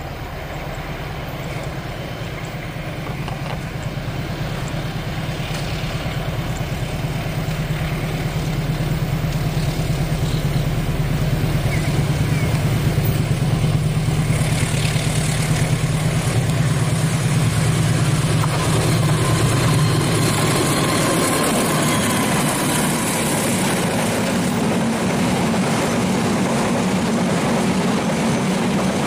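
Diesel-electric locomotive hauling a freight train of flatcars approaches and passes, its engine drone growing steadily louder. About two-thirds of the way through, the hum shifts to a higher pitch as the loaded flatcars roll past over the rails.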